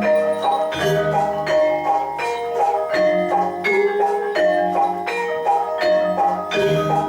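Javanese gamelan music for jathilan: struck metallophones play a repeating melody in a steady beat, the notes ringing on, over lower sustained tones that come back every couple of seconds.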